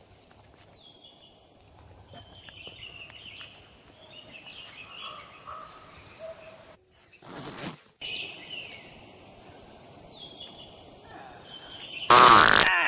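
Birds chirping intermittently over faint outdoor background noise. A short sharp burst of noise comes about seven seconds in, and a loud sudden burst of sound near the end.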